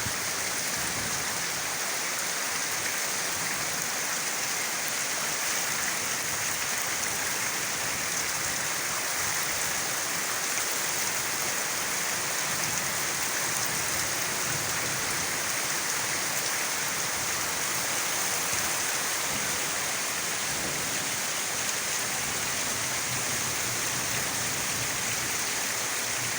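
Steady pouring rain, an even hiss that holds without change.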